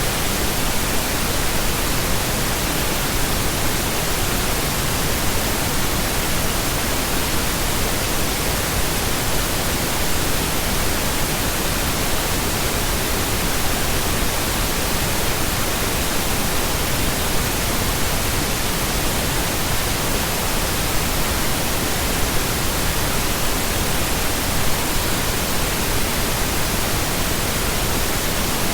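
Steady, unchanging pink noise: an even hiss spread across all pitches, with no tones or events.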